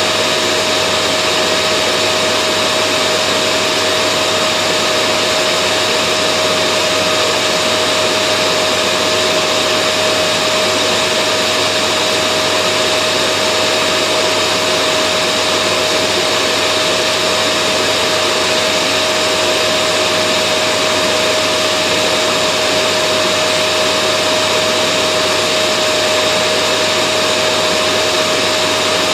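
Vacuum cleaner running continuously at a constant speed: a loud, unchanging rush of air with a steady motor whine.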